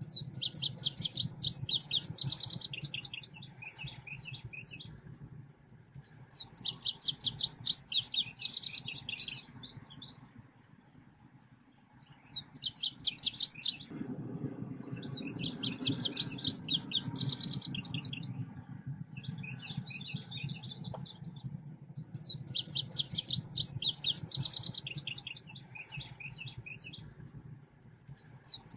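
Songbird known in Indonesia as selendang biru singing in repeated bursts of rapid, high, twittering chirps, each phrase a few seconds long, with softer chirps in the gaps. It is recorded as a lure and tutor song. A steady low hum runs underneath and grows louder about halfway through.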